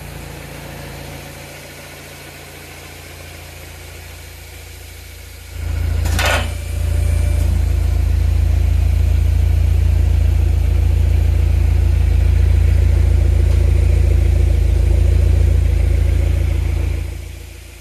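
BMW F20 120i's N13 1.6-litre turbocharged four-cylinder through an aftermarket SC-type rear muffler with left and right single outlets. It idles, then is revved with a brief sharp noise and held at raised revs, loud and steady, for about ten seconds. Near the end it drops back to idle.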